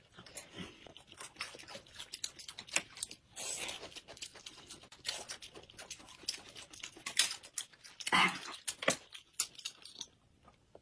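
Close-miked eating: wet chewing and lip smacking, with many short, irregular clicks and a few louder smacks.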